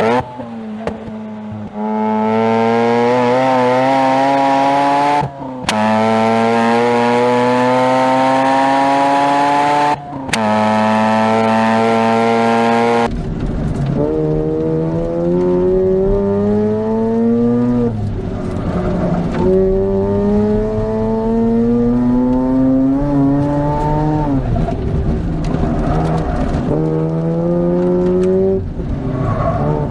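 Mazda RX-8 rotary engine through an HKS Hi Power catback exhaust, driven hard: the pitch climbs steadily through each gear, with quick upshifts about every five seconds. From about 13 seconds in the sound turns rougher, the revs rising and dropping repeatedly as the car brakes and accelerates again.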